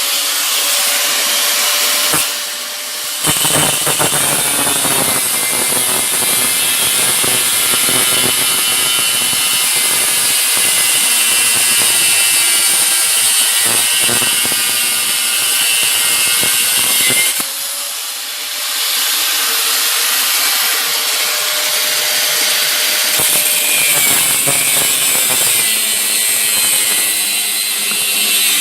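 Angle grinder cutting through long steel mounting studs, the motor whining steadily under a loud cutting hiss. It eases off briefly twice, about two seconds in and again around seventeen seconds.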